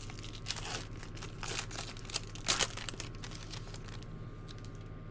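Crinkling of a baseball-card pack's wrapper being handled, a run of short rustles over the first three seconds that then die down.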